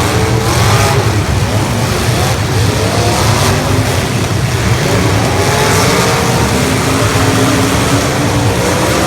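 Engines of several 1980s stock demolition derby cars running and revving together, their pitches rising and falling over one another above a steady low rumble.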